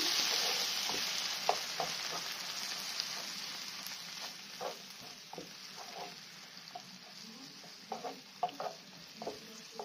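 Onions and cream sizzling in a frying pan while a wooden spoon stirs them. The sizzle fades gradually, with small scattered pops.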